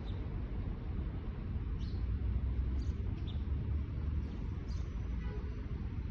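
Outdoor ambience: a steady low rumble, with a few short, high bird chirps scattered through it.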